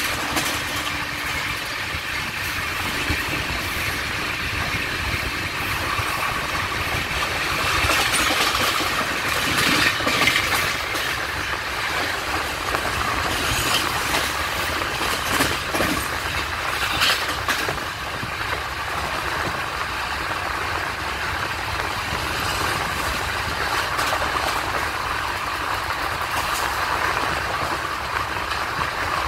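Passenger train running along the track, heard from inside the carriage: a steady rumble of wheels on rails, with a few sharper clanks about eight to ten seconds in and again around fifteen to seventeen seconds.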